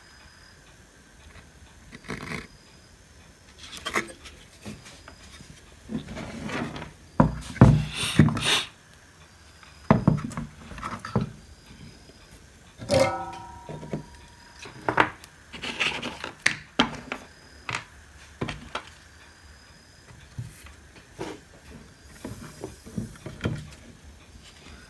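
Scattered knocks, clicks and rubbing as a home theater power supply board and tools are handled on a workbench, with a few louder knocks in quick succession partway through.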